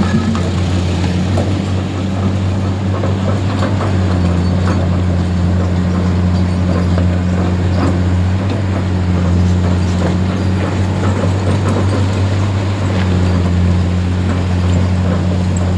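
A vehicle engine running steadily at low speed, an even low hum that stays the same pitch throughout, with scattered small knocks and clicks over it.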